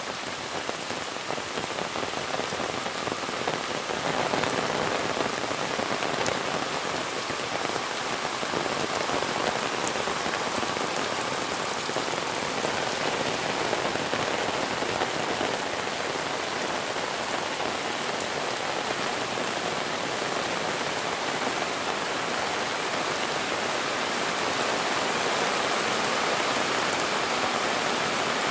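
Monsoon rain falling steadily, a dense, even patter of drops on surfaces that grows a little louder about four seconds in.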